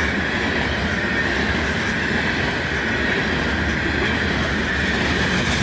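Freight cars of a CN mixed-freight train rolling past, with a steady rumble and wheel clatter and a continuous high-pitched wheel squeal.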